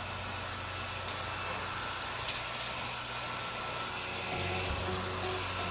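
Nequare A18 cordless stick vacuum running steadily with a whining motor and a rush of suction, with a brief click about two seconds in.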